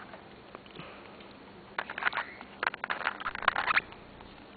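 African grey parrot making a quick run of sharp clicks and short squeaky sounds for about two seconds, starting a couple of seconds in.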